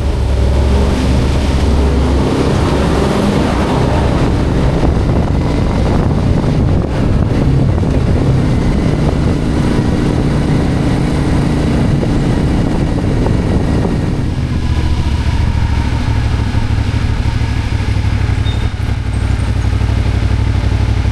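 Motorcycle engine running steadily while riding, picked up close by the rider's camera; about two-thirds of the way through its sound changes and settles lower.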